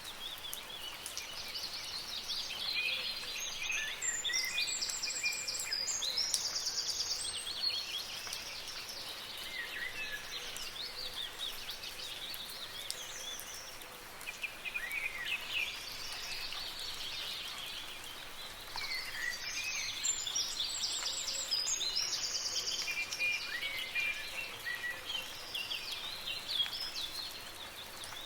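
Several songbirds singing and twittering over a steady soft hiss of light rain. The same burst of song recurs about sixteen seconds later, as in a looped recording.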